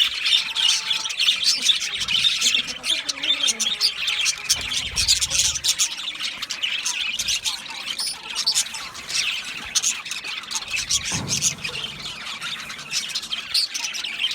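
Budgerigars chattering continuously in a dense stream of rapid, high chirps, warbles and squawks.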